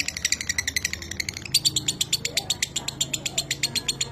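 Lovebird singing a long, unbroken 'ngekek' chatter: a fast, dry run of sharp chirps, about a dozen a second, dipping briefly about one and a half seconds in.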